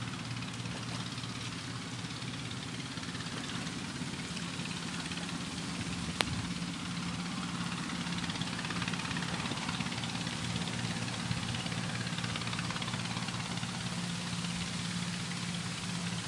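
Heavy rain falling steadily on flooded paddy water, with a steady low engine-like hum underneath. A single sharp click comes about six seconds in.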